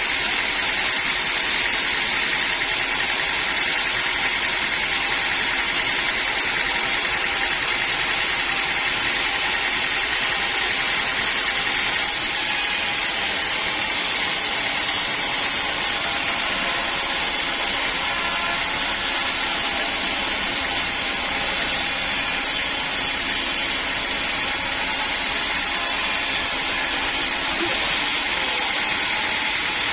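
Sawmill machinery running steadily while sawing a log: a loud, unbroken machine noise with no pauses.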